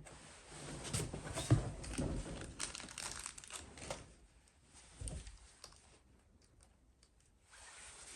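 Handling noises: crinkling and rustling with small clicks, then a single low thump about five seconds in.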